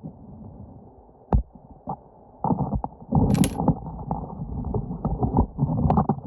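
Muffled underwater knocks, clicks and scraping of stones and gravel being shifted in a creek-bed crevice, with a sharp click about a second in and a brighter one near the middle.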